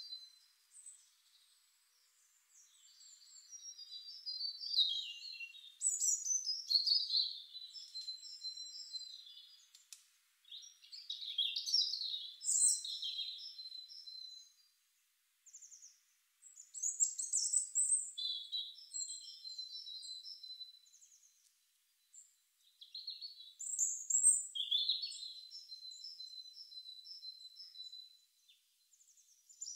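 A small bird singing: phrases of several seconds made of high chirps, trills and held notes, with short pauses between them.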